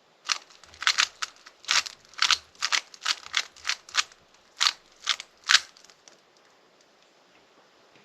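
Rubik's cube being turned by hand: a quick, uneven run of sharp plastic clicks lasting about five and a half seconds, then the clicking stops.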